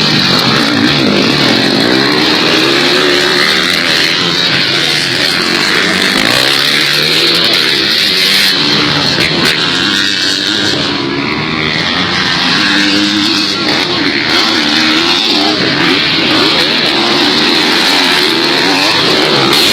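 Several motocross dirt bikes running on the track, their engines revving up and down without a break.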